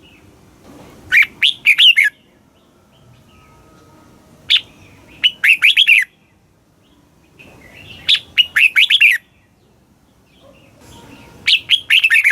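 Red-whiskered bulbul singing: four short phrases of quick warbled notes, one about every three and a half seconds.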